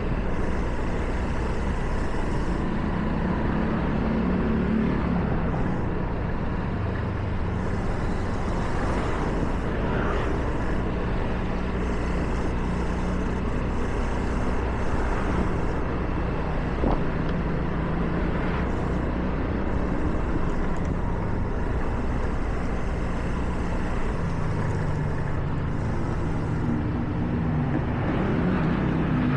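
A car driving on wet roads: a steady hiss of tyres on wet pavement over a low engine hum. The engine note rises near the end as the car speeds up.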